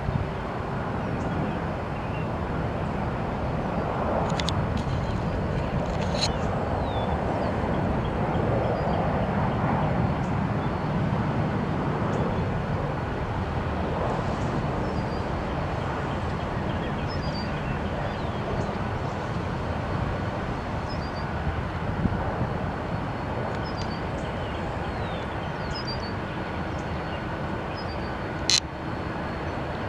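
Steady rushing noise of jet aircraft engines at an airport, swelling a little and easing off again, with faint high chirps now and then and a sharp click near the end.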